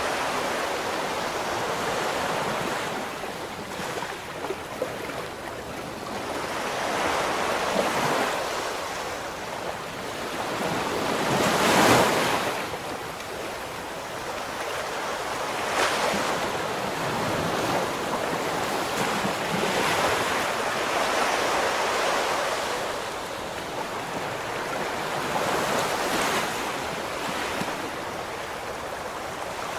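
Ocean surf: a continuous rush of waves swelling and falling every few seconds. The loudest wave breaks about twelve seconds in.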